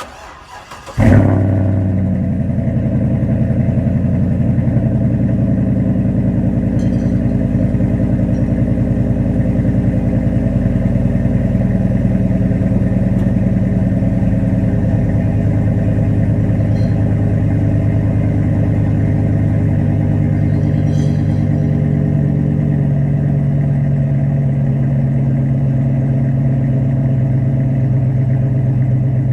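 Cold start of a 2011 GMC 2500 HD pickup with Flowmaster Outlaw mufflers on true dual exhaust. It cranks briefly, catches about a second in with a loud flare, then settles to a steady, low idle.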